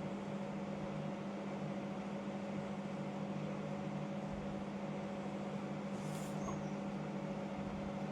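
Steady mechanical hum with an even hiss underneath, cutting off suddenly at the end.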